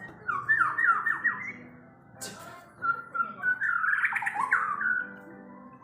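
White-rumped shama (murai batu) singing in a fierce, worked-up mood: a quick series of sharp down-slurred notes, then after a short pause a longer, dense jumble of notes. A single short click falls in the pause.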